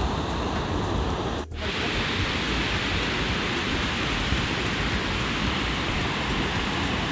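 Floodwater rushing over an overflowing reservoir's spillway, a steady rush of water that drops out briefly about one and a half seconds in.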